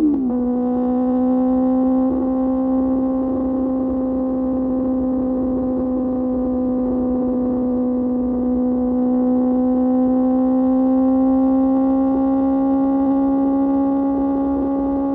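Inline-four engine of a QJ Motor SRK600 through an SC-Project exhaust. Its pitch drops sharply at the very start, as with a gear change, then it holds steady revs at a cruise, the note creeping slightly higher over the stretch.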